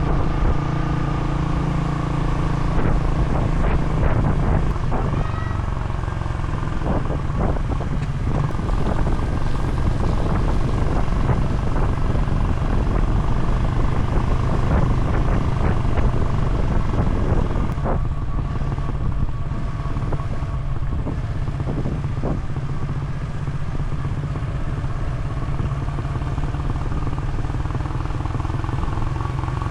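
A vehicle engine running steadily on the move, with a low hum and occasional knocks.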